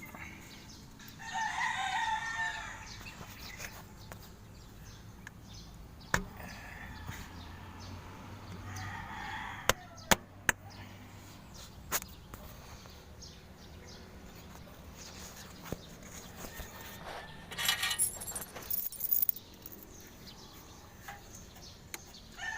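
Rooster crowing twice, a long crow about a second in and a shorter one near the middle. A few sharp knocks come between the crows, and a brief scraping rustle follows near the end.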